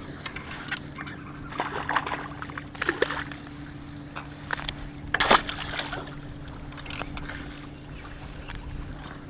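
Small fishing boat's motor humming steadily, with water sloshing and splashing against the hull and a few sharp knocks, the loudest about five seconds in.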